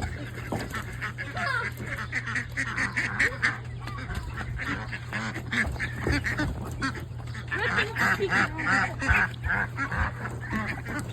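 A flock of domestic ducks quacking, many short calls overlapping continuously, over a steady low hum.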